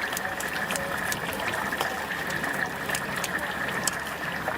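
Stinky tofu deep-frying in hot oil: a steady sizzle with frequent sharp crackles and pops.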